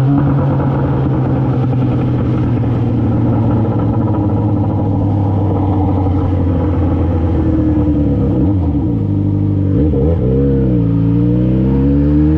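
Yamaha XJ6's 600 cc inline-four running through an Akrapovic full exhaust system, holding fairly steady revs, then dropping and wavering twice about eight to ten seconds in before the revs climb again near the end as it accelerates.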